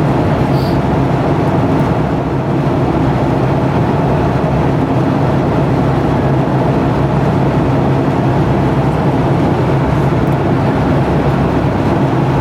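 Steady cabin noise of a Boeing 757-200 airliner in cruise flight: a constant rushing roar of engines and airflow with a low hum that does not change.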